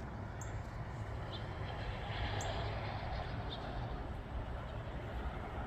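Steady outdoor background noise with a low rumble underneath and a few faint, short, high ticks scattered through it.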